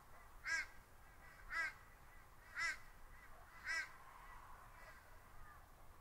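A bird calling: four short calls about a second apart, each with a rising-then-falling note, faint over a quiet rural background.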